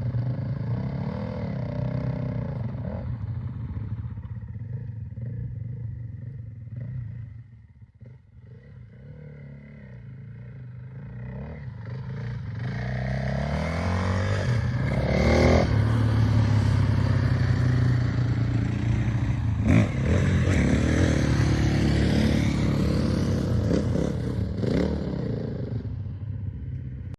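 Motocross bike engines: the sound fades away, then grows louder again and revs up with a rising pitch about halfway through, staying loud for several seconds before dropping off near the end.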